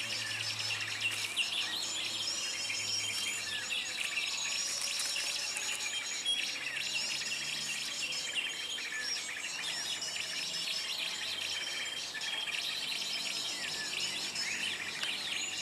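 Many small birds chirping and twittering at once, a dense mix of short calls and trills that overlap throughout.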